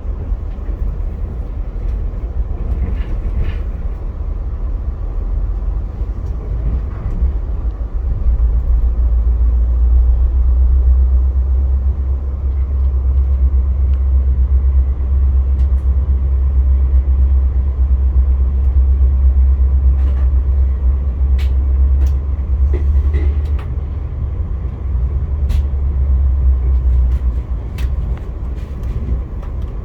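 Via Rail passenger train rolling along the track, heard from on board: a steady low rumble that grows louder about eight seconds in and eases near the end, with scattered light clicks.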